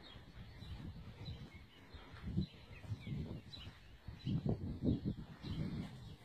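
Outdoor ambience: faint, scattered bird chirps over irregular low rumbling on the microphone. No engine is running.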